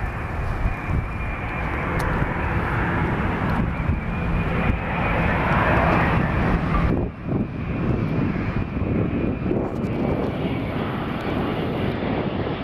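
Jet engine noise from a Boeing 787-9 airliner coming in to the airport: a continuous dense rush that swells to its loudest about six seconds in, dips briefly, then carries on.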